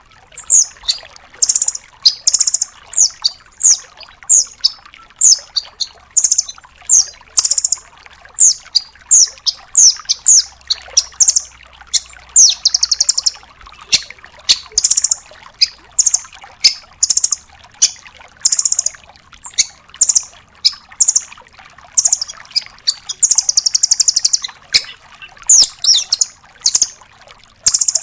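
Velvet-fronted nuthatch calling: a fast, unbroken series of sharp, high chips, about two a second, broken now and then by longer buzzy rattles.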